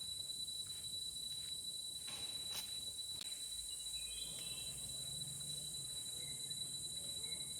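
Steady chorus of rainforest insects, a continuous high-pitched whine with a constant hiss above it. A single sharp click comes about two and a half seconds in, and a few short faint chirps follow.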